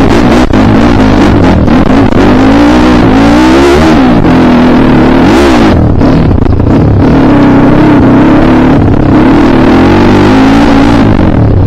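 Single-cylinder dirt bike engine under load on an enduro trail, its pitch rising and falling as the throttle is worked, with two sharp revs near the middle.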